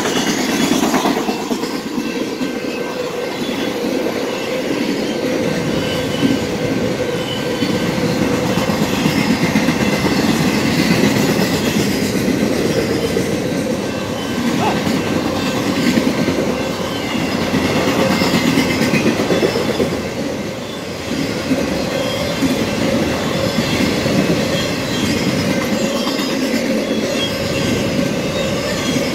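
Union Pacific freight train of autorack cars rolling past, a steady rumble and clatter of steel wheels on rail joints, with a thin wheel squeal held throughout.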